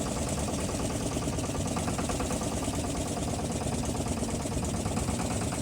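Motorboat engine running steadily, an even low chugging.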